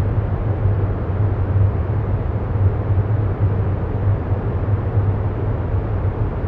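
A steady, low rumbling background drone with no rhythm or changes, its weight in the low end.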